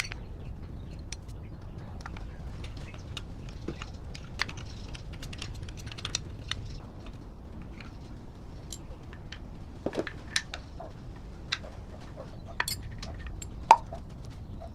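Irregular light clicks and taps of hand work on small parts, with one sharper knock near the end, over a steady low background hum.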